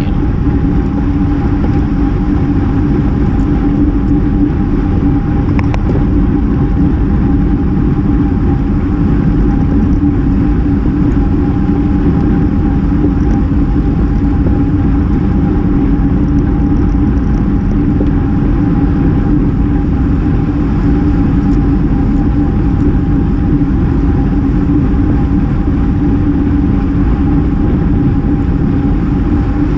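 Steady wind rush over a GoPro microphone on a moving road bicycle, with road and tyre noise and a steady hum underneath.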